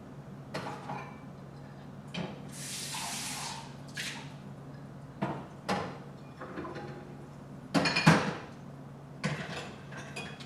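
Tap water running briefly, about two and a half seconds in, then dishes clinking and knocking as they are set into the dishwasher rack, several separate clinks with the loudest clatter near the end.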